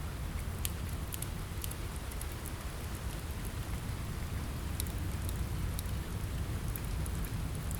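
Steady rain on a window with a low rumble beneath it, mixed with scattered sharp crackles and pops from a wood fire in a fireplace.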